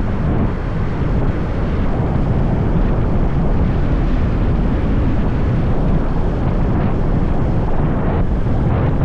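Wind buffeting the microphone of a camera on a moving motorbike, a steady loud low rumble that covers the ride's other sounds.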